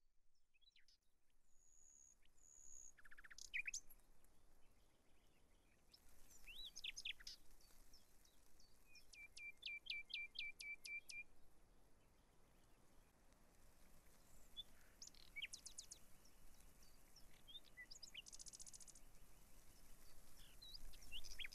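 Faint birdsong from several small birds: scattered chirps and thin high whistles, with one bird giving a run of about eight quick, evenly spaced notes about nine seconds in, over a soft background hush.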